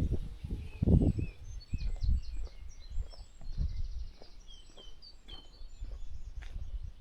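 Small birds chirping and trilling in quick, high notes, over a low rumble that is loudest about a second in.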